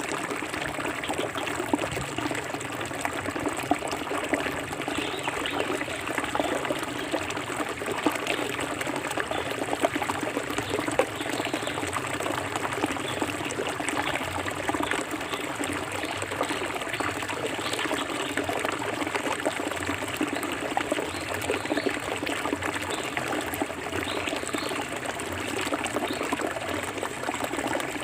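Forest river water flowing with a steady, even trickling.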